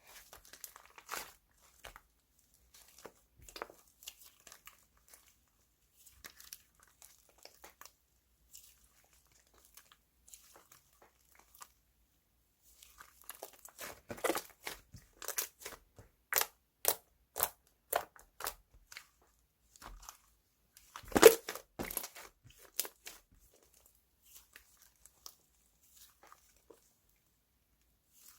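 Hands playing with slime: soft scattered crackles and small clicks, a run of sharper pops about two a second through the middle, and one loudest pop a little after.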